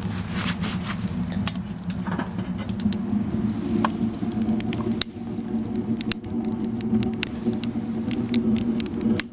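Firewood crackling in a homemade stove-fireplace, with irregular sharp snaps over a steady low rush of the flue draft.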